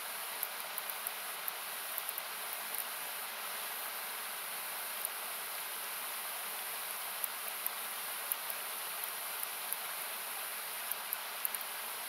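Steady rush of a nearby river, thinned by equalising so it sounds like hiss, with scattered sharp crackles and pops from a wood campfire.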